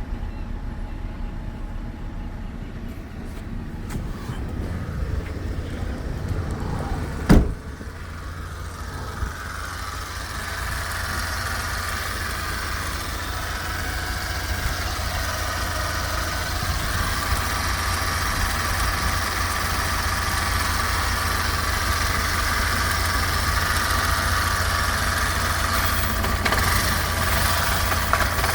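Skoda Fabia's 1.2-litre three-cylinder petrol engine idling steadily during an engine test. A single sharp knock sounds about seven seconds in, and from about ten seconds on the engine sound grows slightly louder and fuller.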